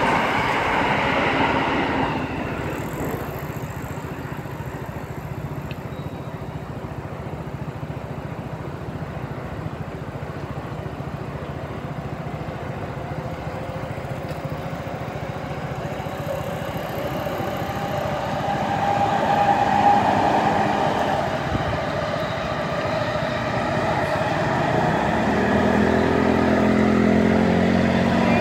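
Electric commuter trains running along the tracks. The noise is louder for the first two seconds, eases, then builds again to a peak about two-thirds of the way in, and a steady hum rises near the end.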